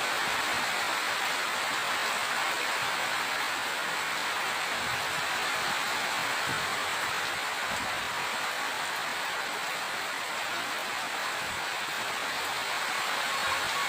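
Steady rain falling, an even hiss with a few faint soft drips and knocks underneath.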